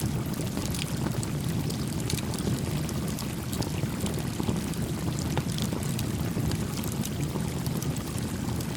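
A small campfire crackling, with scattered sharp pops and snaps of burning wood, over the steady rush of a gently flowing creek.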